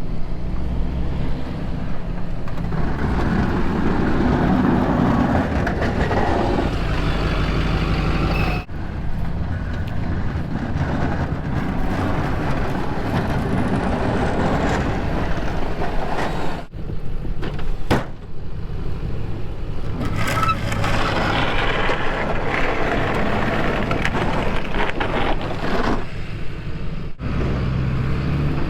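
Snow plow truck's engine running steadily under load while plowing a lot, with a dense noise over it. The sound breaks off abruptly several times and resumes.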